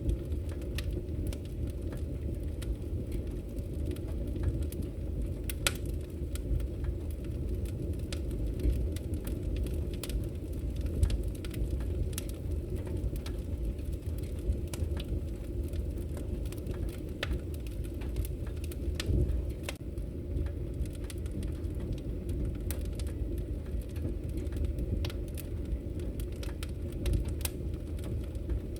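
Wood fire crackling in a fireplace: irregular sharp pops and snaps from the burning logs over a steady low rush of the flames.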